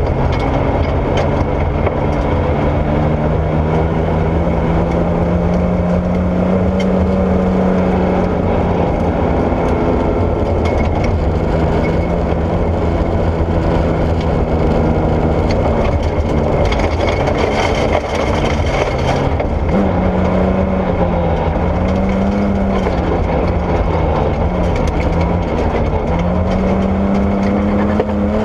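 Porsche 964 rally car's air-cooled flat-six running hard on gravel. The engine note climbs slowly at first, holds, then rises and falls repeatedly from about two-thirds in as the throttle comes on and off, over a constant rough rumble of tyres and gravel.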